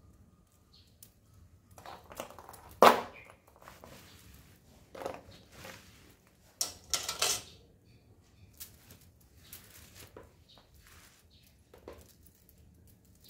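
Metal tools and bicycle parts clinking and knocking as they are handled, with one loud clank about three seconds in and a cluster of knocks near the middle.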